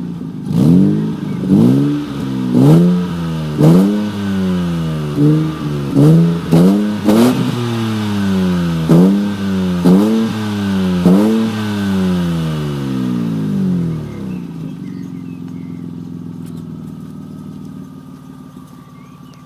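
Opel Vectra B's 2.5-litre X25XE V6 petrol engine and exhaust blipped a dozen or so times, about once a second, each rev rising sharply and falling back. About 14 seconds in it settles to a steady, quieter idle.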